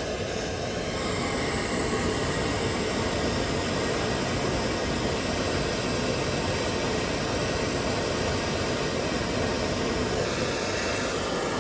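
Handheld torch flame hissing steadily while heating a rusted exhaust bolt to free it.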